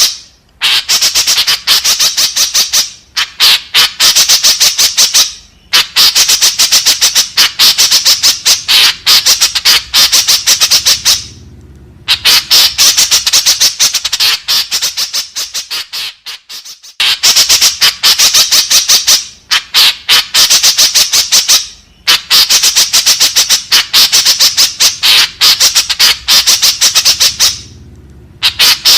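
White-breasted woodswallow (kekep babi) calling: rapid strings of short, sharp repeated notes, many per second, in bursts of a few seconds broken by brief pauses, one run fading away before the calling starts again.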